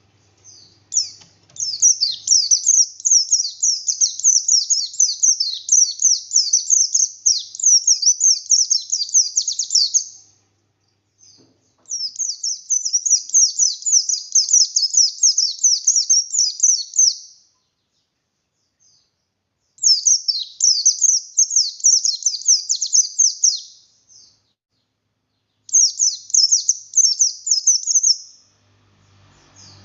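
A pleci buxtoni, the buxtoni race of the Oriental white-eye, singing in long bouts of fast, high, tumbling twitters. Four bursts come with short pauses between them, the first lasting about nine seconds and the later ones a few seconds each.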